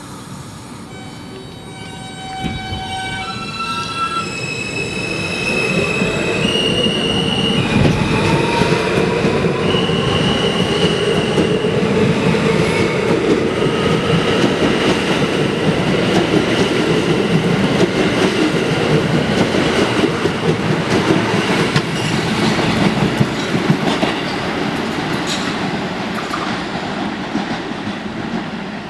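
R160 subway train pulling out of the station: its motor inverters give a whine that steps up in pitch over the first few seconds, then the rumble of wheels on rails builds and stays loud as the cars pass, with some wheel squeal, before easing off near the end.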